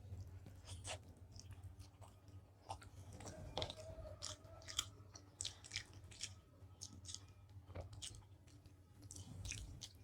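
Faint, wet chewing and mouth smacks of people eating soft syrup-soaked sweets, heard as scattered short clicks.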